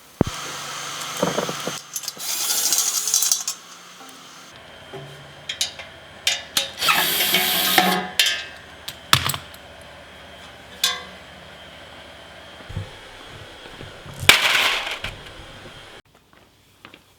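Shop tool work: several bursts of a power tool about a second long, mixed with sharp metallic clinks and knocks of hand tools and parts.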